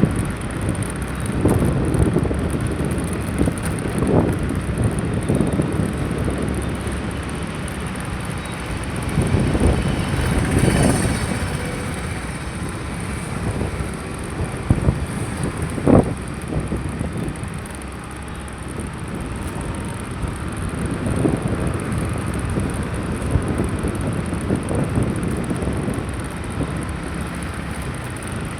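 Wind rumbling on the microphone over road vehicle noise, swelling and easing unevenly, with a short sharp knock a little past halfway.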